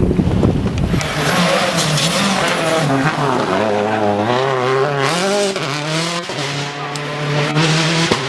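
Rally car engine worked hard on a tarmac stage: the revs break about a second in, then rise and fall repeatedly as the driver blips through downshifts and back onto the throttle, climb steadily again, and drop with a gear change near the end.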